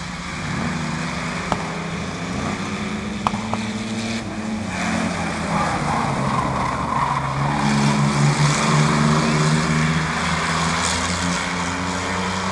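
Several racing trucks' engines running together on a speedway oval, their pitches shifting as they pass. The sound grows louder to a peak partway through as the field goes by close. Two brief sharp cracks come in the first few seconds.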